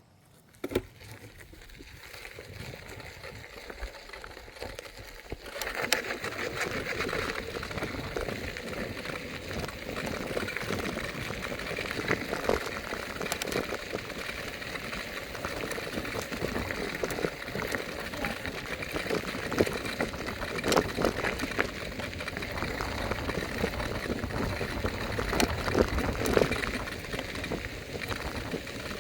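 Electric scooter rolling along, a steady crackly noise of tyres and rattling parts with many small clicks; it starts about half a second in and grows louder about six seconds in.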